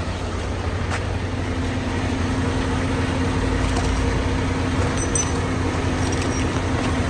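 Semi-truck's diesel engine running steadily, a low even hum with a couple of faint clicks and rattles.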